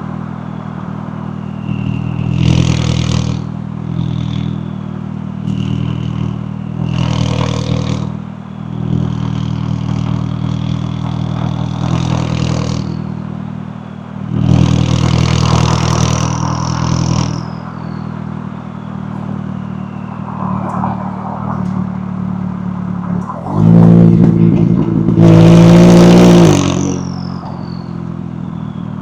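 McLaren 570S twin-turbo V8 driving at a steady engine note, punctuated by several short bursts of throttle. About three-quarters of the way in it runs loudest in a hard acceleration of about three seconds, and a high whistle falls in pitch after the lift-off.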